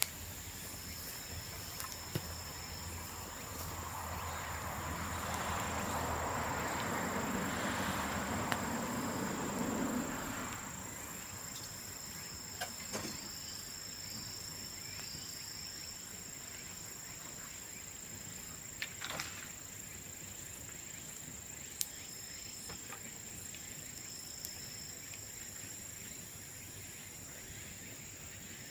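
Steady high-pitched insect chirring, with a few sharp pops and crackles from a burning bamboo bonfire. A broad rush of noise swells about four seconds in and drops away at about ten seconds.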